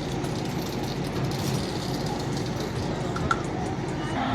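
Steady street noise with the hum of vehicle traffic and faint ticks, and one short sharp click about three seconds in.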